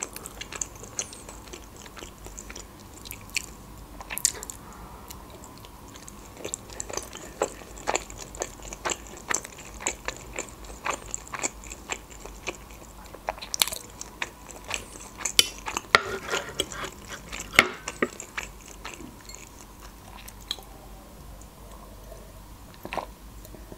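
Close-up chewing of boiled meat dumplings (pelmeni): irregular mouth clicks and smacks as a mouthful is chewed, easing off near the end with a sip from a glass.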